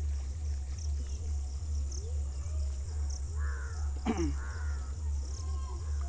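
A few short, harsh bird calls around the middle, over a steady low rumble.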